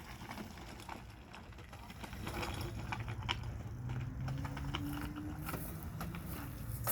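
A Razor electric dirt bike's motor whining faintly as a kid rides it, its tone rising slowly in pitch as the bike gathers speed, over a low rumble with scattered clicks.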